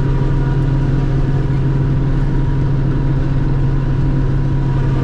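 Forage harvester running steadily while chopping corn: an even, unbroken machine hum with a strong low tone.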